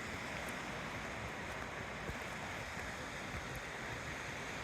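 Steady rush of surf washing onto a sandy beach, with wind buffeting the microphone.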